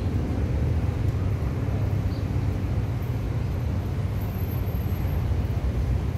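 Steady low rumble from a passenger train standing at the station platform.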